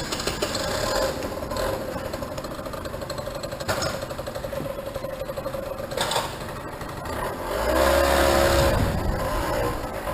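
Small engine running with a steady pulsing note, then revving up and settling back down about eight seconds in; a few sharp clicks earlier on.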